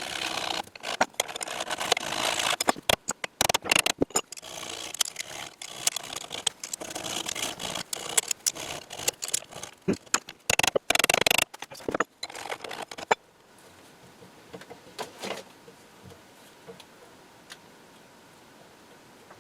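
Hand tools working on a steel handle pin: busy scraping with rapid clicks and knocks of metal on metal. It stops abruptly about thirteen seconds in, leaving quiet room tone with a few faint knocks.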